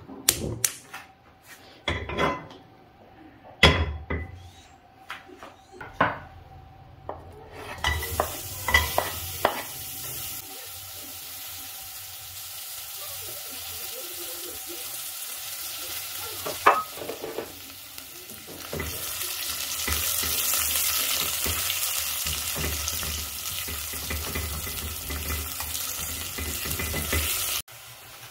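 A few sharp knocks and clatters of cookware, then oil sizzling steadily in a pan as onions fry, with occasional knocks of a utensil against the pan. The sizzle grows louder about two-thirds of the way through and cuts off abruptly just before the end.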